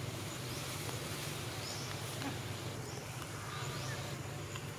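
Outdoor forest ambience with a bird repeating a short, high, rising call about once a second, over a steady low hum.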